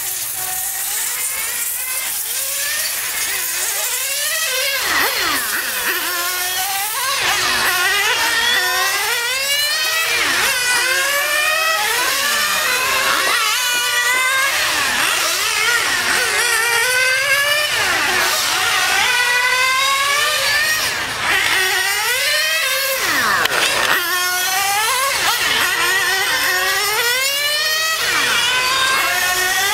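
Small high-revving Alpha model engine running hard, its pitch climbing and dropping again and again as it is revved up and backed off, with several sharp falls in pitch.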